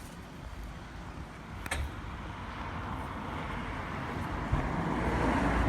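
Vehicle noise: a steady rumble that grows louder toward the end, with a single sharp click about two seconds in.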